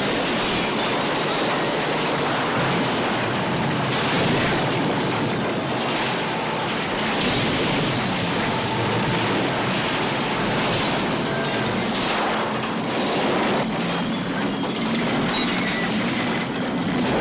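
A truck driving hard during a stunt: a loud, steady rumbling and clattering, with several sudden crashes along the way.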